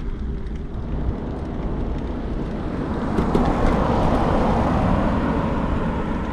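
A car passing on the road, its tyre and engine noise swelling about three seconds in and fading again, over a steady low rumble of wind on the microphone.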